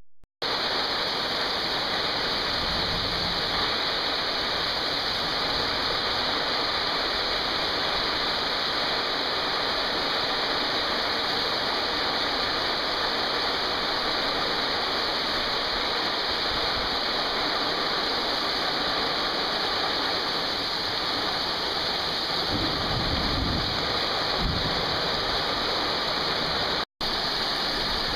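Heavy rain pouring down steadily, with a couple of brief low rumbles about two-thirds of the way through.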